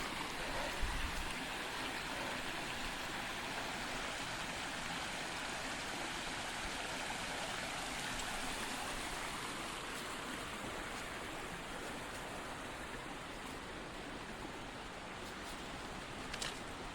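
Steady rush of a stream's running water, easing slightly toward the end.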